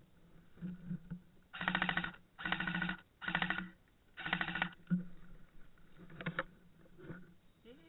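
Four short bursts of full-auto fire from an airsoft electric gun, each about half a second of rapid buzzing clicks, fired in quick succession, with a fainter short burst a little later.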